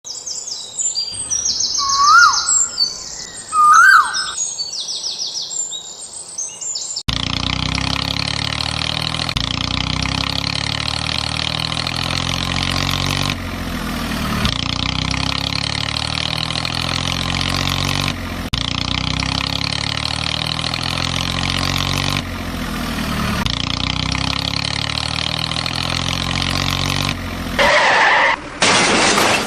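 For about the first seven seconds, high bird-like chirps and two short rising whistles. Then the steady running of heavy diesel machinery, broken by several abrupt cuts.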